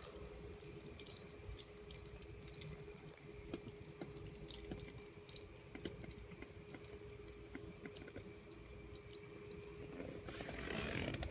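Quiet room tone with a steady faint hum and scattered soft clicks and rustles, swelling into a louder rustling hiss near the end.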